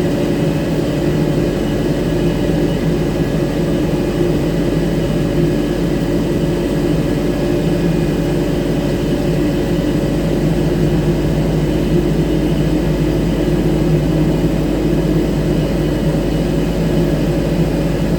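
Airbus A321-231 jet airliner at close range during pushback: a steady turbine whine over a low rumble, holding level throughout.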